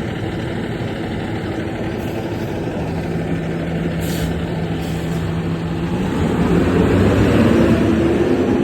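Diesel engine of a KME fire engine running steadily, growing louder over the last few seconds.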